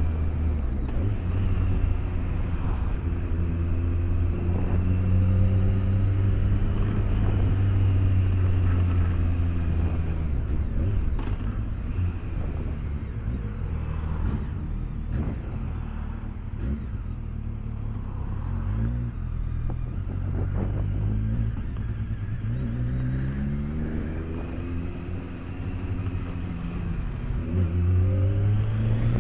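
A BMW K1200S's inline-four engine running under way, heard through a microphone inside the rider's helmet. It holds a steady note for most of the time, and the revs climb a couple of times in the last third as the bike accelerates.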